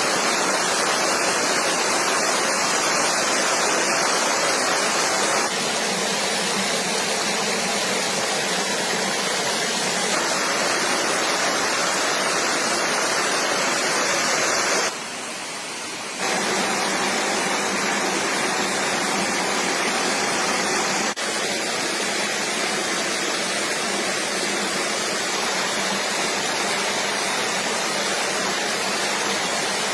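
Steady rush of flowing stream water. Its level shifts abruptly a few times: once about five seconds in, a brief quieter stretch around fifteen seconds, and again near twenty-one seconds.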